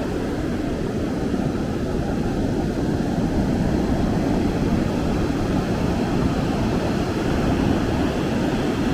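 Steady low rumble of ocean surf mixed with wind buffeting the microphone, swelling a little a few seconds in.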